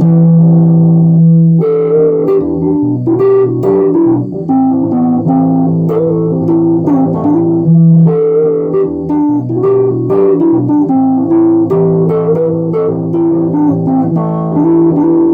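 Music: a plucked guitar playing a moving melody over sustained bass notes.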